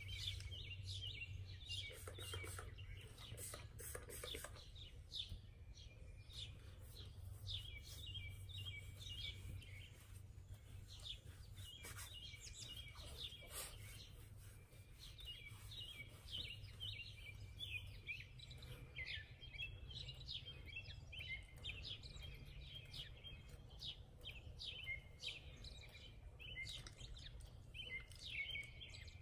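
Faint bird chirping, many short repeated chirps throughout, over a low steady hum. A few short hisses come near the start.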